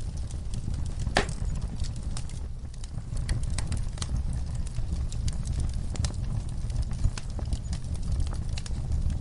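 Wood logs and coals burning in a fire pit, crackling and popping irregularly, with one sharp pop about a second in, over a steady low rumble.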